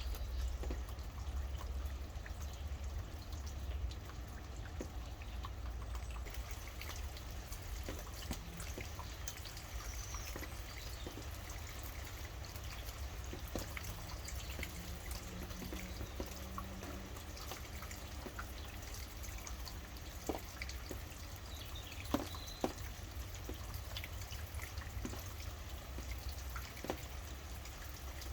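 Rain falling steadily, with many separate drips and patters of drops over a low, steady rumble. A few faint bird chirps come through, one about ten seconds in and a couple more near the twenty-two second mark.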